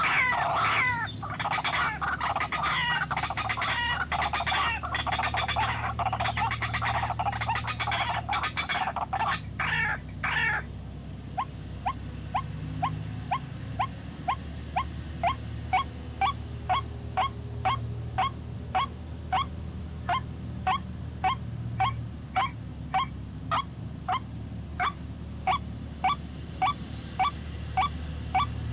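White-breasted waterhen (ruak-ruak) calling: about ten seconds of dense, raucous, overlapping calls that stop abruptly, then a steady series of short single notes, about one and a half a second.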